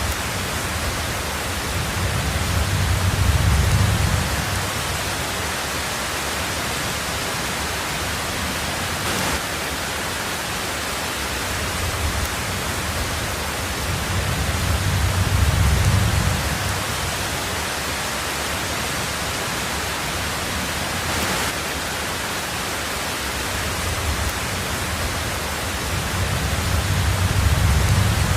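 Heavy rain on a tin roof, a steady dense hiss, with low thunder rumbles that swell and fade three times, about twelve seconds apart.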